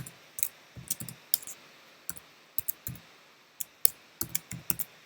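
Typing on a computer keyboard: irregular keystrokes in short bursts.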